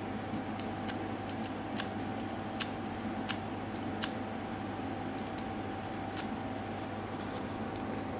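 Sharp, irregular clicks and ticks from the gear mechanism of a hand-built automaton whistling bird, most of them in the first half, over a steady hum. No whistling is heard.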